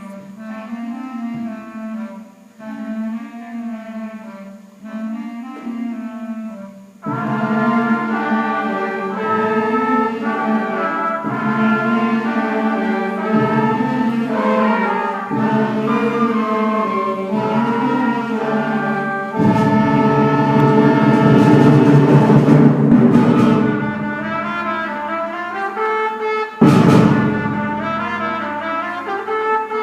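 7th and 8th grade school concert band playing a regal piece in three: a softer passage of held notes, then the full band comes in loudly about seven seconds in. A loud percussion-heavy swell comes around the middle, and a sudden loud hit near the end.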